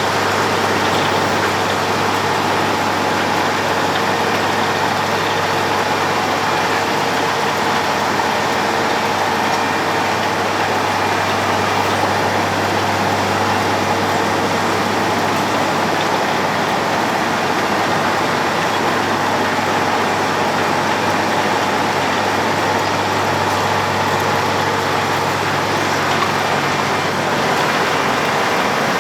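Road planer (cold milling machine) running steadily: a loud, continuous engine drone with a constant low hum and a few steady whining tones over a dense rushing noise.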